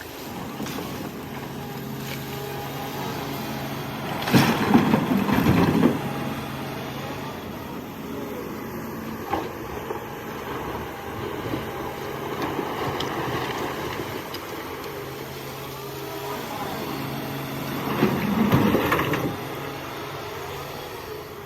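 Excavator diesel engine running steadily under work, rising twice into louder, rougher bursts: a few seconds in and again near the end.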